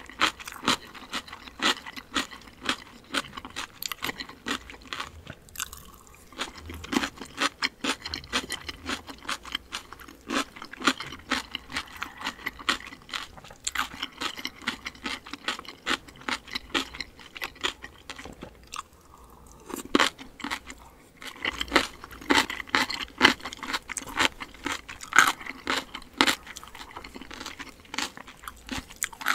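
Close-miked chewing with crisp, wet crunching of cucumber kimchi, in an irregular stream of small crackles, with a short lull about two-thirds of the way through.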